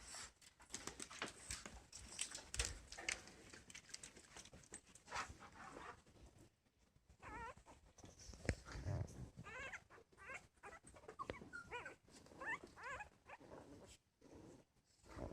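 Chihuahua puppies whining and squeaking in short, wavering high calls, mostly in the second half, over soft rustling and tapping of their movement.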